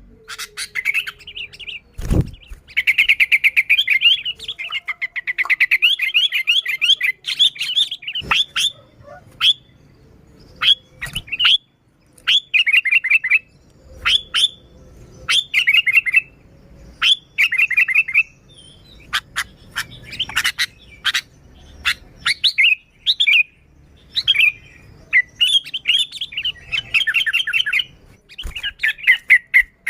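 Sooty-headed bulbul (kutilang) calling in quick bursts of chirps, phrase after phrase with short gaps between them. A couple of sharp clicks cut in, one about two seconds in and another about eight seconds in.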